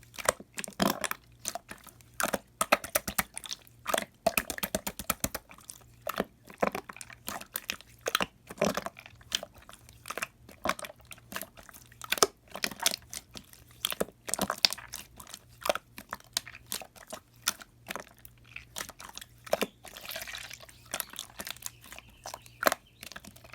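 Clear slime being squished and pressed by hand, making rapid, irregular sticky clicks and pops.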